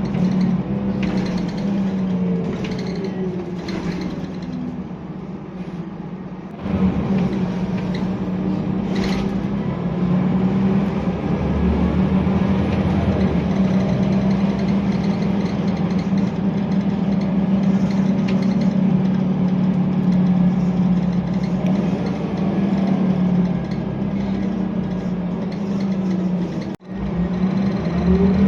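Diesel engine of a Scania L94UB city bus, a 9-litre five-cylinder, running under way. It winds down in pitch over the first few seconds, picks up sharply about six and a half seconds in and runs steadily, then starts to rise in pitch near the end.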